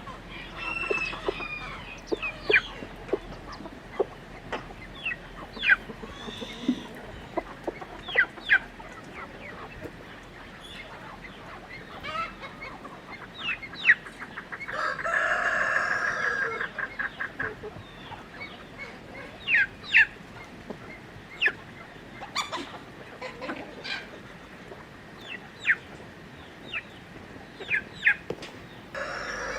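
Chickens clucking in many short, sharp calls, with one longer call of about two seconds around the middle.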